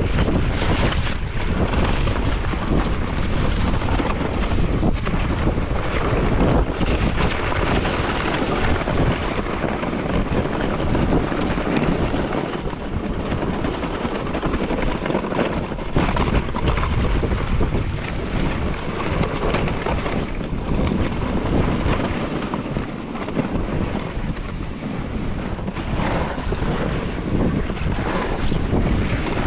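Steady rush of wind buffeting the microphone while riding downhill on a snowboard, mixed with the board sliding and scraping over snow.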